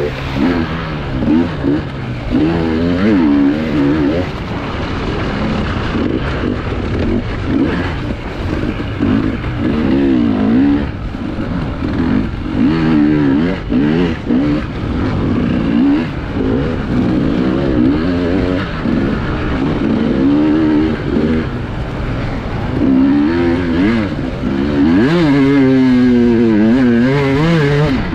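Enduro motorcycle engine heard close up from the rider's own camera, its pitch rising and falling over and over as the throttle is opened and closed in short bursts, with a longer, higher rev near the end.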